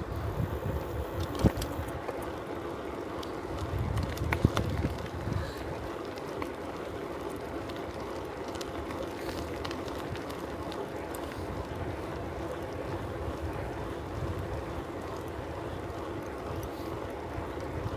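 Bicycle rolling along a road: steady tyre and riding noise, with wind buffeting the microphone in low gusts during the first five seconds and two sharp clicks or rattles about one and a half and four and a half seconds in.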